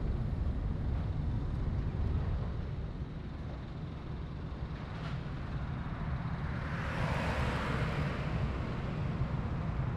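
Distant low rumble of the Boeing C-32's Pratt & Whitney PW2000 turbofans. A rushing hiss swells about seven seconds in and then fades.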